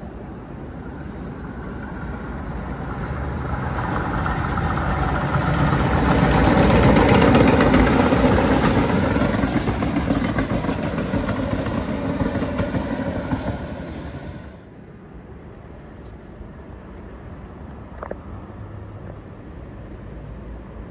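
An MBTA Blue Line subway train passing close by on surface track, its wheels and motors growing louder, then holding. The sound cuts off abruptly about two-thirds of the way through, leaving a quieter steady hum.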